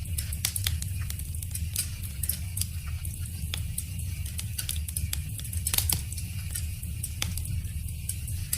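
Wood fire crackling: irregular sharp pops and snaps from the burning wood, several a second, over a steady low rumble of the flames.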